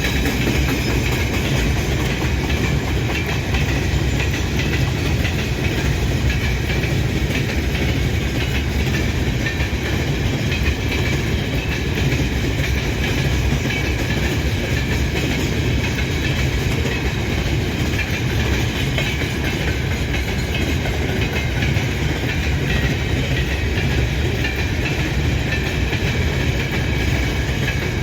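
A freight train hauled by a 3ES5K 'Yermak' electric locomotive rolling past, with a steady rumble of its wheels on the rails.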